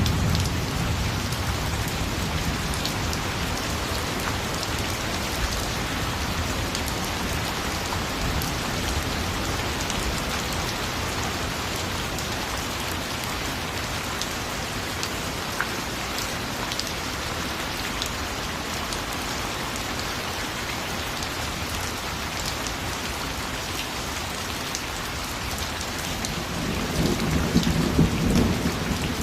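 Steady heavy rain falling, a dense hiss with scattered drop ticks. A low roll of thunder fades out at the very start, and another low rumble of thunder swells near the end.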